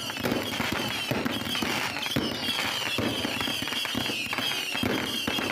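Consumer fireworks crackling with dense, rapid pops, with a high whistle running through the crackle.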